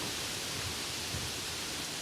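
Steady outdoor hiss, with irregular low rumbling from wind on the microphone.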